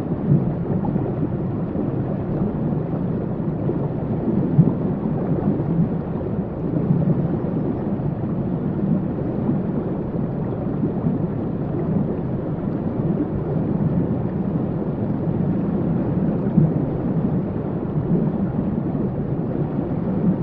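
Waterfall: a steady, unbroken low rush of falling water.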